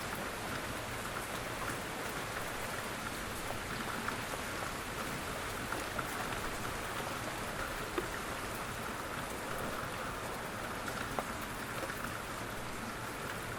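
Steady rain falling on a surface, an even hiss dotted with sharp ticks of individual drops, a couple louder than the rest.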